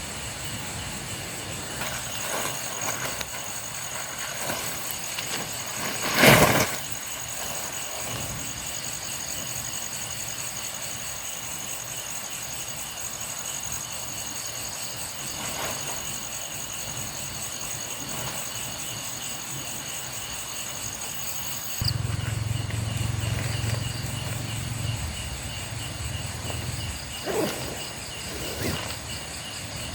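Night insects such as crickets chirring steadily at a high pitch. One loud knock comes about six seconds in, and a low hum starts suddenly a little past the twenty-second mark and fades a few seconds later.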